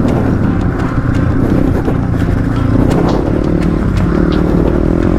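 Motorcycle engine running under throttle, its pitch wavering and then climbing near the end as it revs up.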